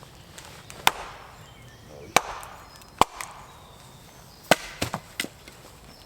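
Wood being chopped: about six sharp strikes at uneven intervals, roughly one a second, with the hardest ones about a second, two seconds and three seconds in.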